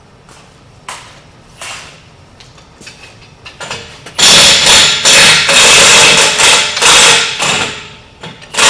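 Impact wrench hammering on a wheel hub fastener in several rattling bursts, starting about halfway through and again at the end, after a few light knocks of tools.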